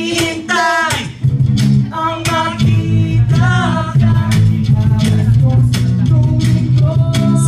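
A band performing a song: a singing voice over guitar, bass guitar and a steady drum beat.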